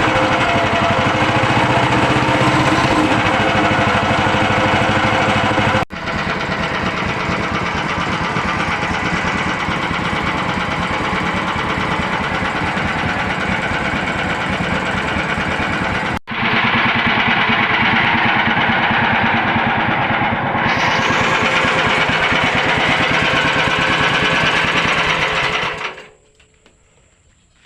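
An 18 hp engine running steadily with a rapid, rattly firing beat, broken twice by sudden momentary gaps, then cutting off abruptly near the end.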